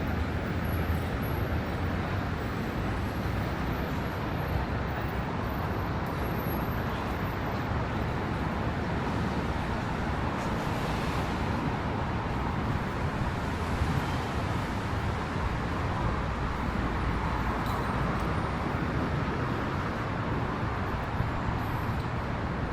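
Steady city traffic noise of cars on rain-wet streets, an even rush of engines and tyres with no single vehicle standing out.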